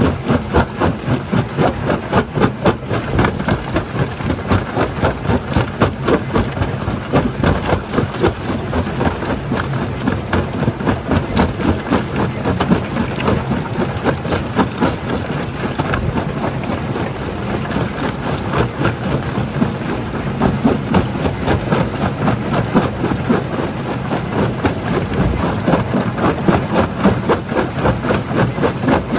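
Rock crusher plant machinery running: a loud, steady mechanical din with fast, even pulsing, about three beats a second.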